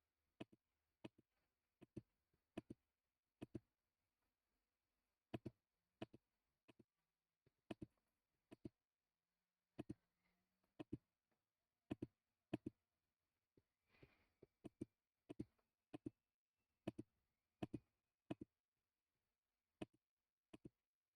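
Computer mouse clicking, faint single and double clicks at an irregular pace of about one or two a second, as lines are clicked one after another with a trim tool.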